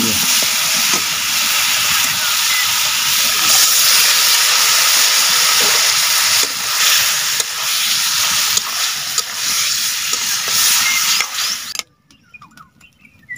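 Hot spiced masala sizzling and hissing in a kadai as cubed raw papaya and potato are cooked in it with a metal spatula. The sizzle cuts off suddenly near the end.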